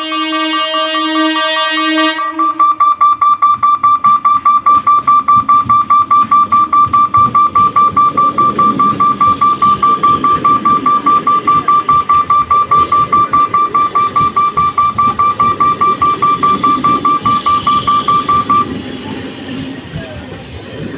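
A horn sounds for about two seconds, then a level-crossing electric warning bell rings in a fast, even, high-pitched pulse, several strokes a second, and stops a couple of seconds before the end.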